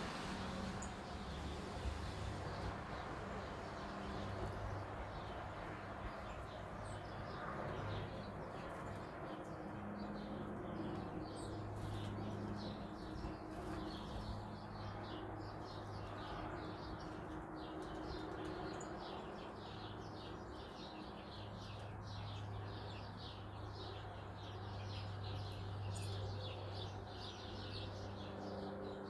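Small songbirds chirping and twittering, a dense run of short high calls that thickens after the first several seconds, over a low steady hum.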